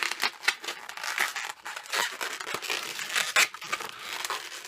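Latex modelling balloon rubbing against itself and the hands as a small bubble is twisted and pushed into place, giving a run of irregular scratchy, crinkly strokes.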